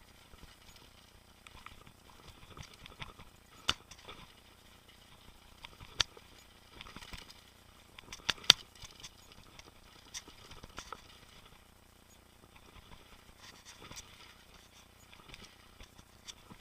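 Mountain bike riding over a rough trail: a light rattle of tyres and bike with scattered sharp knocks from bumps, the loudest a pair about eight and a half seconds in.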